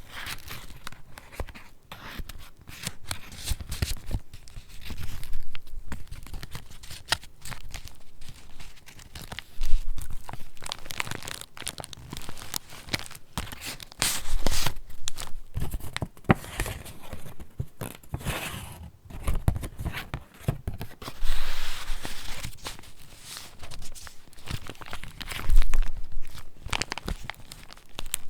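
Pages of a handmade paper junk journal being turned and handled: paper rustling and crinkling with small taps, swelling into louder page turns every few seconds.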